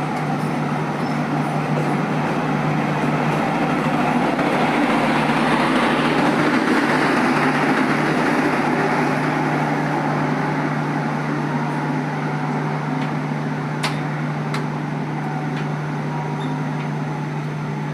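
Diesel train moving through a station: a steady engine hum under wheel and rail noise that swells about six to eight seconds in and then slowly eases. A couple of sharp clicks come near the end.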